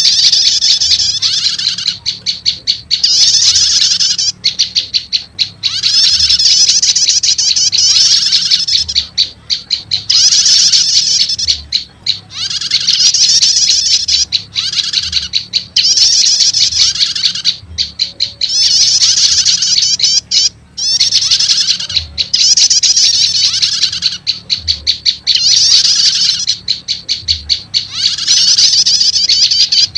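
Looped lure-call recording of prenjak lumut (a small Indonesian warbler) calls mixed with 'starter' prenjak calls. The sound is rapid, high, chattering trills in bursts of a second or two with short breaks, repeating over and over.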